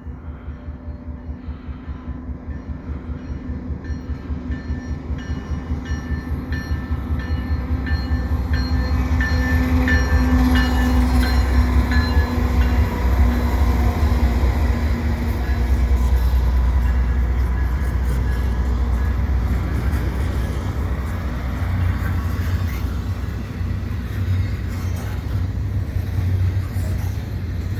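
Two Canadian Pacific AC4400CWM diesel-electric locomotives approaching and passing under power with a heavy low engine rumble that grows louder over about ten seconds. Then the freight cars of a double-stack train roll steadily by.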